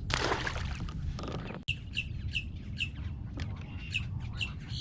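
A bird calling in a series of short chirps, roughly two a second, over a steady low rumble. A brief rushing noise comes at the start.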